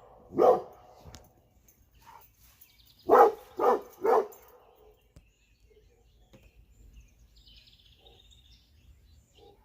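A dog barking: one bark, then three quick barks in a row a few seconds later.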